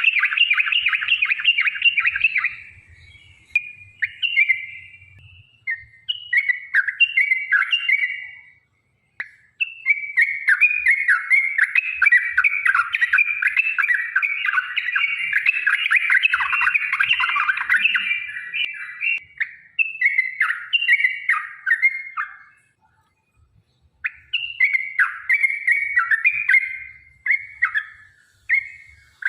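Yellow-vented bulbul (trucukan) singing, its bubbly chattering phrases breaking into long rapid runs of notes, with brief pauses between bouts.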